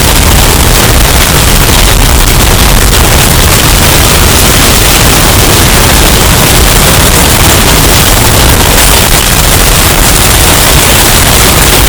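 Hurricane storm-wind sound effect, bass boosted and overdriven into heavy distortion: a steady, very loud wall of noise with a booming low end that never lets up.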